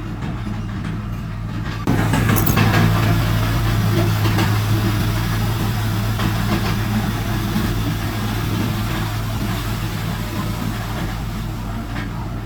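Heavy diesel earthmoving machinery running with a steady low engine hum. It turns abruptly louder about two seconds in, with a coarse rushing, clattering noise on top that slowly eases off.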